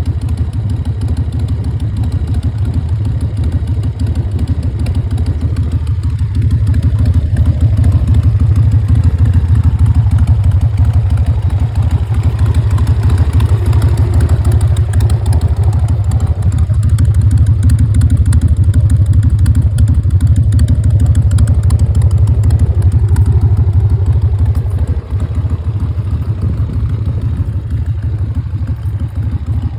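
Harley-Davidson Evolution Sportster's air-cooled V-twin running steadily, getting louder about eight seconds in and easing off again about twenty-five seconds in, during a pre-delivery check.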